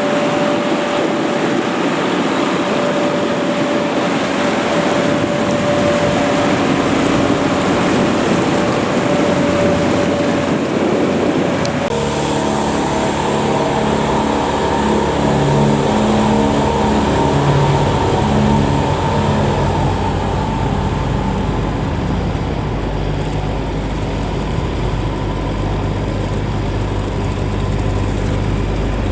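Boat engine running steadily. About twelve seconds in, the sound changes as a lower, uneven engine note comes in and grows heavier towards the end.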